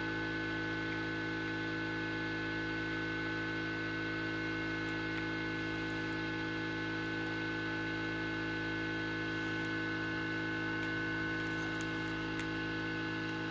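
Steady electrical hum made of several unchanging tones, with a few faint small clicks near the end.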